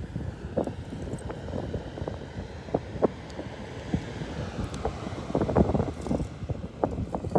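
Wind buffeting the microphone, with irregular clicks and crackles that come thicker and louder from about five seconds in.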